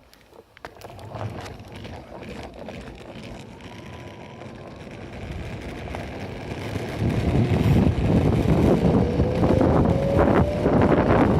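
Enertion Raptor 2 direct-drive electric skateboard riding, with wheel rumble and wind buffeting the microphone building up and turning loud as it picks up speed. Later a faint whine rises in pitch.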